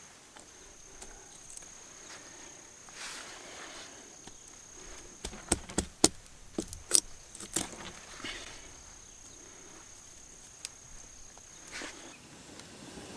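An insect's steady high-pitched trill, stopping just before the end, with a quick run of sharp clicks and knocks about five to eight seconds in and a few soft rustles.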